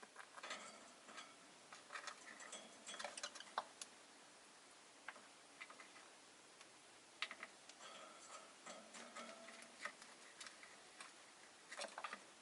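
Faint, irregular clicking and tapping from rosy-faced lovebirds moving about their cage, beaks and feet on the bars and perches, in several short flurries. A few soft, quiet twitters come in between.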